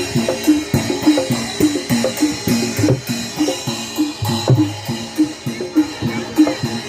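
Live Javanese barongan accompaniment: drums beating a fast, steady rhythm under short repeated pitched metallic notes.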